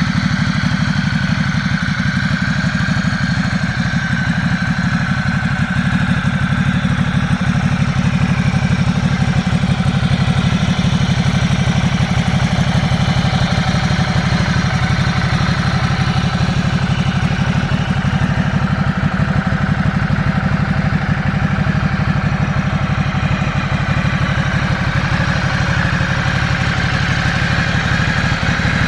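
Motorcycle engine idling steadily at an even, unchanging speed.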